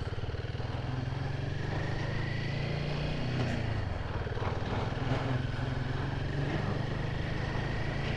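Royal Enfield Himalayan 450's single-cylinder engine running at low revs with a steady, even pulse; the note wavers briefly about halfway through.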